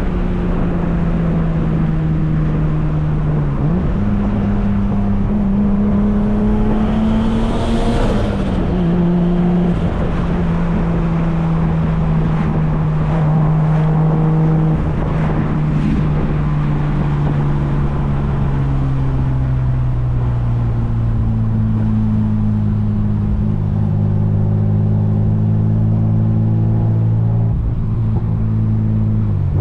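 Turbocharged BMW M50 inline-six in an E36 heard on the move, its engine pitch stepping up and down as the revs change through the gears. About eight seconds in the revs drop sharply with a short burst of hiss, and over the second half the engine note falls slowly and steadily.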